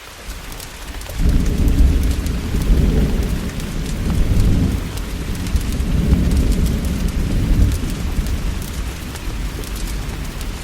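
Heavy rain hissing steadily, with a deep rolling thunder rumble. The rumble comes in about a second in and swells and eases in slow waves, and scattered sharp ticks sit on top of the rain.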